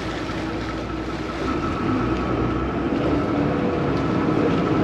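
Vaporetto water bus under way, its engine running with a steady low hum over water and wind noise. A thin steady whine comes in and the engine grows louder about a second and a half in.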